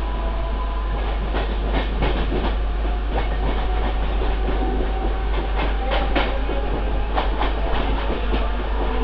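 Mumbai suburban electric local train running along the track, heard from the side of a coach: a steady rumble with clusters of sharp wheel clacks over the rail joints, about two seconds in and again from the middle to near the end.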